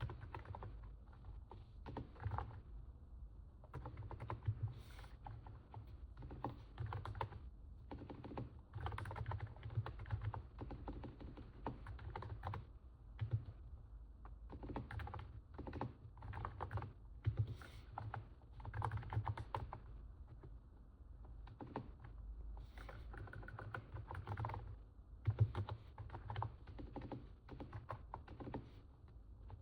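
Typing on a NIZ 68 Pro capacitive keyboard: runs of quick keystrokes broken by short pauses, a soft sound likened to stepping on snow.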